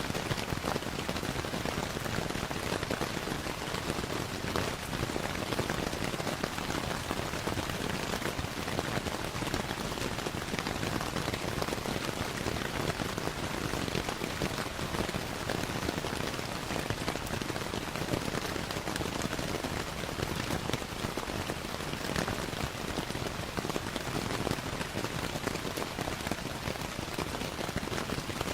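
Steady rain with an even hiss, mixed with the crackling of a wood fire in a fireplace.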